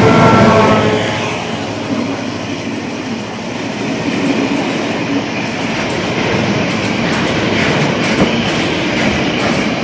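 Rail tank wagons of a freight train rolling past, wheels on the rails, with sharp clicks over the rail joints in the second half. In the first second the locomotive's EMD 16-645E diesel engine is the loudest sound, then it fades away as the locomotive moves off.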